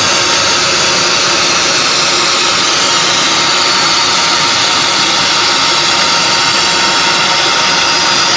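Fume extraction unit running, a loud steady rush of air with a faint steady hum that does not change.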